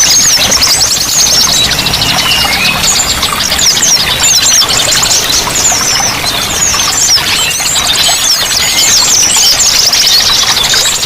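Many small songbirds chirping and twittering rapidly and without pause, high-pitched and densely overlapping, over a steady wash of flowing water.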